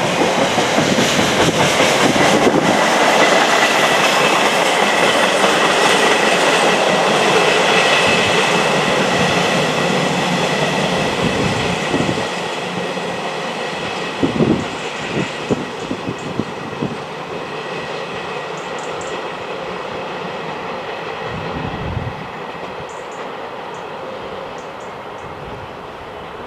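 Train passing close by, its wheels clattering over the rails, the noise slowly fading as it draws away. Low thumps of wind buffeting the microphone come through in places.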